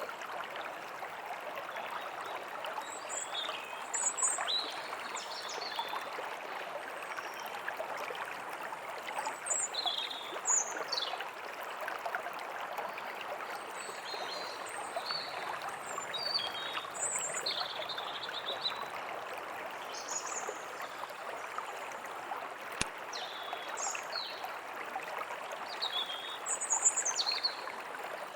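A small stream babbling steadily, with songbirds chirping and calling on and off throughout.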